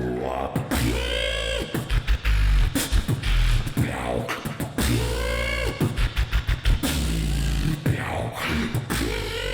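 Beatboxing in dubstep style: deep vocal bass wobbles with rapid clicks and kick-drum hits, and twice a pitched vocal swoop that rises and falls back down.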